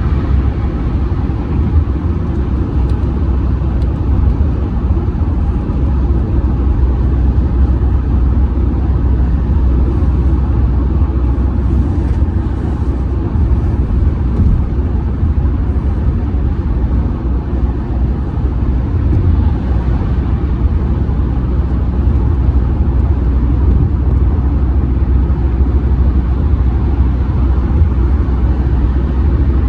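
Steady low rumble of tyre, road and engine noise from an Audi A6 C6 2.0 TDI diesel driving at speed, heard from inside the cabin.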